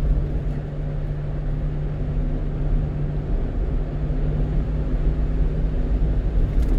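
Steady low rumble of a 1-ton truck being driven, engine and road noise heard from inside the cab, with a steady low hum underneath.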